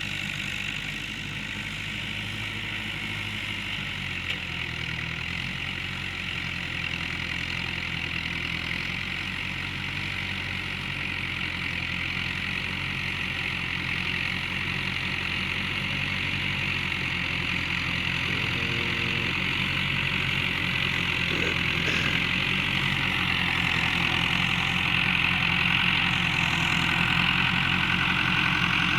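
Iranian-built Massey Ferguson 285 tractor's diesel engine running steadily, gradually getting louder.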